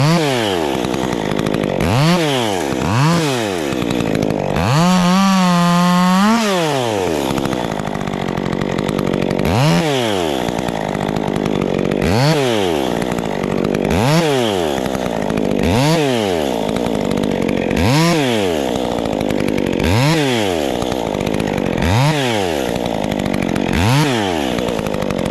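Stihl MS 400 C two-stroke chainsaw idling and revved in short blips about every two seconds, each one climbing and falling straight back, with one longer rev about five seconds in. This is typical of nicking cut-length marks along a log.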